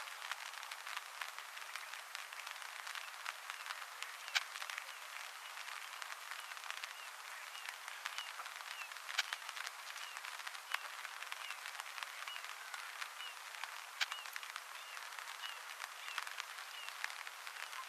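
Outdoor ambience: a steady high hiss full of small clicks and crackles, with a few sharper ticks, and faint short chirps of a distant small bird repeating about once a second through the middle.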